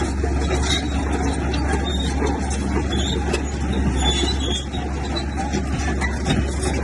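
Diesel engine of a heavy earthmoving machine running steadily, with a deep low rumble and scattered metallic clinks and clatter over it.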